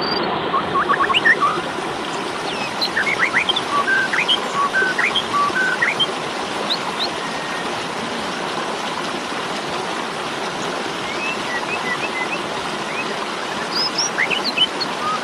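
Asian pied starling (jalak suren) calling: many short chirps and whistles, scattered and overlapping, over a steady rushing noise.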